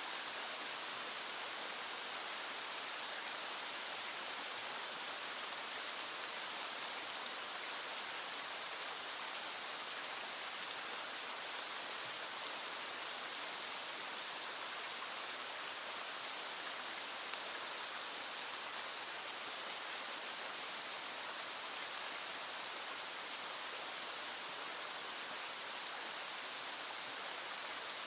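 Small stream flowing with rain falling, a steady, even rush of water with no single drops or other sounds standing out.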